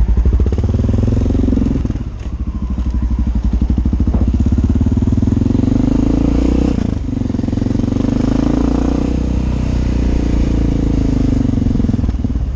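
Honda XR650L's air-cooled single-cylinder four-stroke engine pulling away and accelerating, the revs climbing and dropping sharply twice, about two seconds in and again about seven seconds in.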